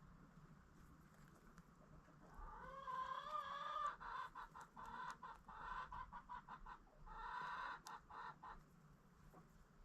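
Chicken calling: a drawn-out, wavering call starting about two seconds in, followed by a run of short, choppy clucks and another held call that ends with a few seconds to go.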